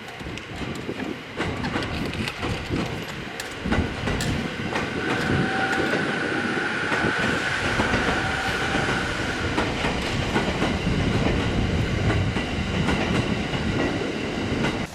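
E231 series electric multiple unit running past after a renewal of its traction equipment, with wheels clicking over rail joints and a steady high whine over the rumble. It grows louder about four seconds in.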